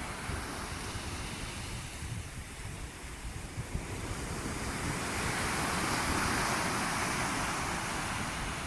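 Sea waves washing on the shore, one wave swelling up to its loudest a little past the middle before easing off. Wind rumbles on the microphone underneath.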